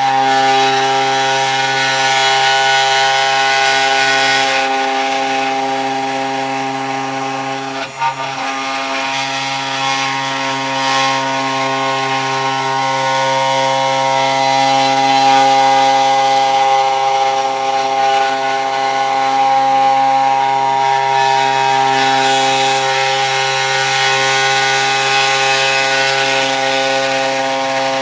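CNC 3018 Pro desktop router's spindle cutting into wood: a steady whine with many overtones and a hiss of cutting over it, dipping briefly about eight seconds in.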